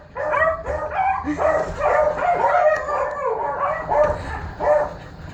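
Three-week-old pocket beagle puppy whining and squeaking in a rapid string of short, high cries while it roots about hungrily for a nipple.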